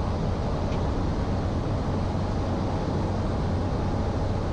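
Steady cockpit drone of a Cessna 208 Caravan's PT6A turboprop engine and propeller in flight on final approach, an even low hum under airflow noise.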